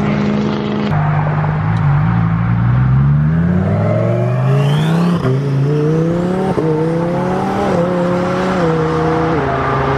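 Twin-turbo Lamborghini Huracán Performante V10 accelerating hard, its pitch climbing through the revs with a rising turbo whistle. It changes gear about five and six and a half seconds in, then falls in pitch in steps near the end as it eases off.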